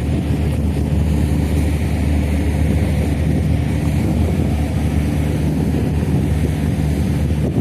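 Ferry's engines running with a steady low hum, with wind noise on the microphone.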